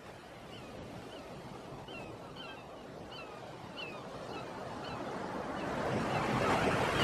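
Ocean surf washing, swelling steadily louder, with a string of short, downward-sliding bird chirps over it.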